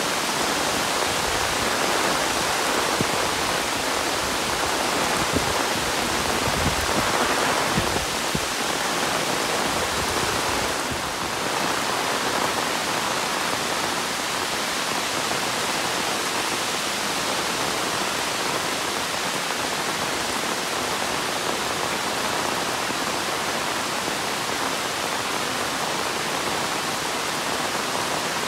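Monsoon rain falling steadily, a continuous even hiss of downpour.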